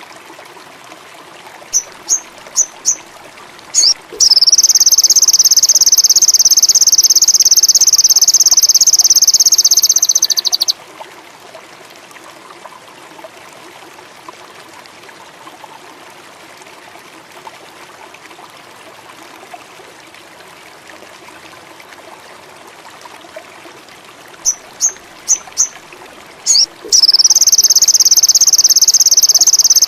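Sogon songbird singing: a few short, rising, high chirps, then a long, loud, unbroken high trill lasting about six seconds. The same phrase comes again near the end, over a steady hiss like running water.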